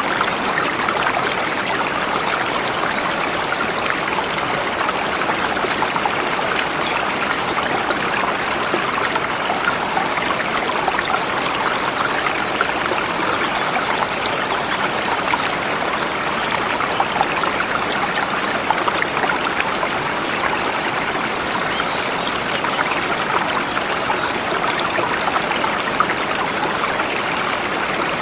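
A forest river flowing over rocks: a steady, even rush of water.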